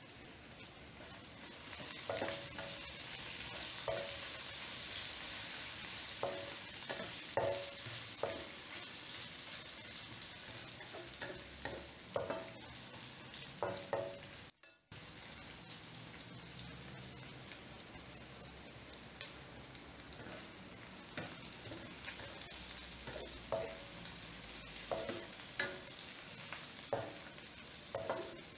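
Sliced onions and chillies sizzling in oil in a nonstick wok, with the soft knock and scrape of a spatula stirring them every second or two. The sound drops out briefly about halfway through.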